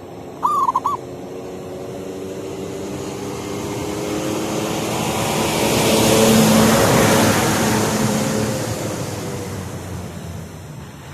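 A zebra dove gives a quick burst of three or four coos about half a second in. Then a motor vehicle passes: its engine and tyre noise swells to a peak midway and fades away again.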